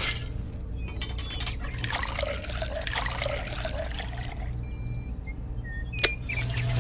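Liquid being poured, splashing and trickling for a few seconds, over a steady low hum, with a single sharp click near the end.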